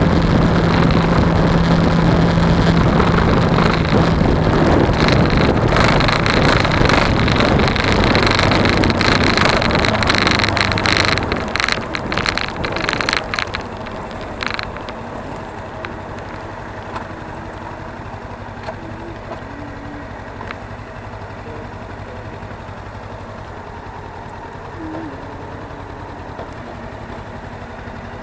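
Suzuki V-Strom 250 parallel-twin motorcycle riding, its engine and wind noise loud on an action camera's microphone. About eleven seconds in it slows, with a few sharp clicks, and then runs on much quieter and steadier.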